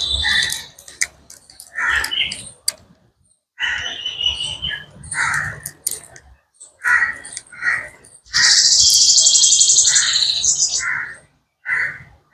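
Birds calling in short bursts, including crows cawing; about eight seconds in comes a dense spell of high, rapid chattering lasting about three seconds.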